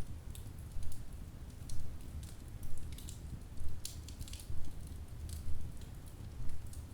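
Wood fire in a fireplace crackling: sharp, irregular pops and snaps, a few a second, over a steady low rumble.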